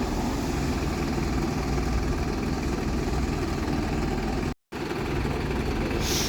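A bus engine idling steadily, with a split-second gap in the audio about four and a half seconds in.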